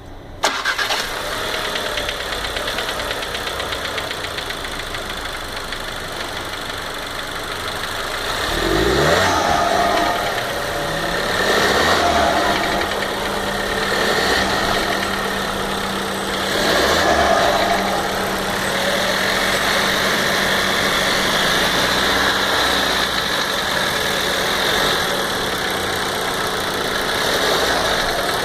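A 2015 VW Golf Variant's 1.4 TSI turbocharged four-cylinder engine running and revved up several times. It makes a knocking noise that the owner takes for a tappet (hydraulic lifter) knocking, which he suspects comes from the engine at times not being lubricated properly.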